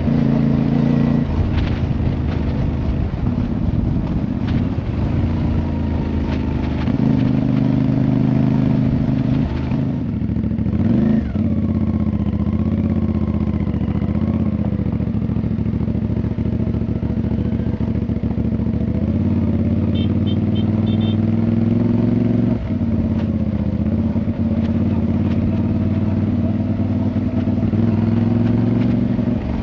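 Motorcycle engine running on the move, its pitch rising and falling with throttle and gear changes.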